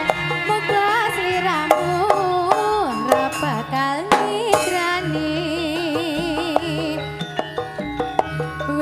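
Live East Javanese jaranan music: drums and percussion keep a rhythm under a wavering melody line that bends in pitch.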